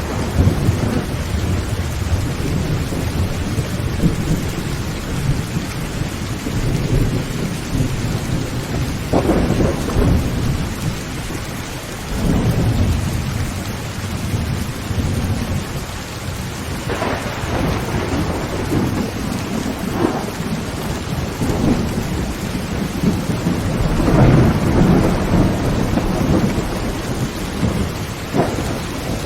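Heavy rain falling steadily on a tin roof, with thunder rumbling through it several times, a few peals sharper than the rest.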